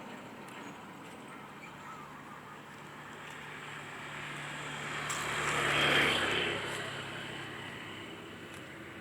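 A road vehicle passing by, getting louder to a peak about six seconds in and then fading away.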